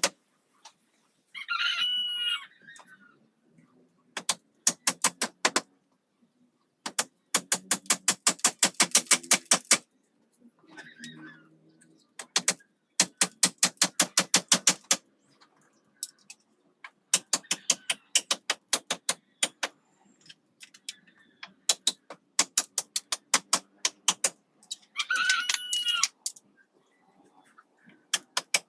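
A rooster crows twice, once about two seconds in and once near the end. Between the crows come runs of rapid sharp knocks, several a second, in bursts of a second or more.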